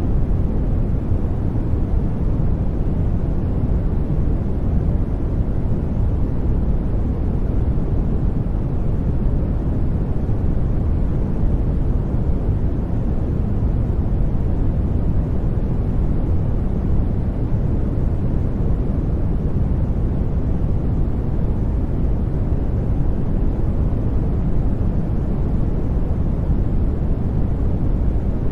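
Steady sleep noise track: an even, deep hiss weighted toward the low end, unchanging throughout.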